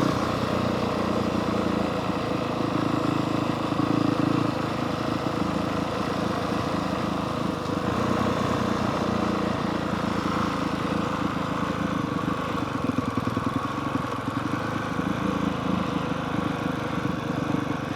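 Honda CRF450R dirt bike's 450 cc single-cylinder four-stroke engine running at fairly steady revs while the bike is ridden down a dirt road.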